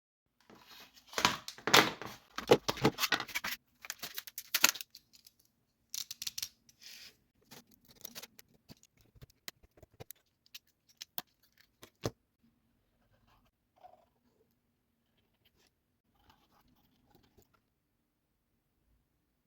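Scratchy, crinkling handling noise for several seconds, then scattered clicks and taps, thinning out after about twelve seconds.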